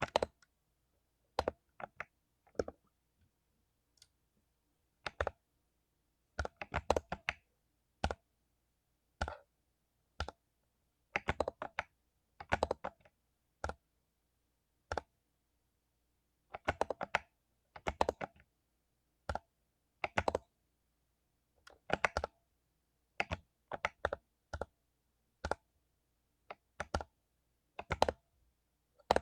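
Mechanical keyboard with lubed Cherry MX Silver linear switches being typed on: irregular bursts of rapid keystrokes and single key presses, with short pauses between.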